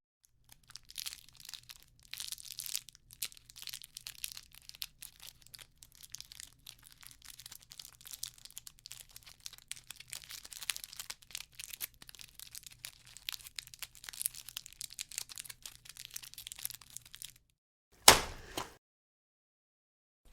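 Meat sound effect: irregular wet crackling and clicking, with many small crackles every second, running for about seventeen seconds. It stops, and a moment later comes one loud slap.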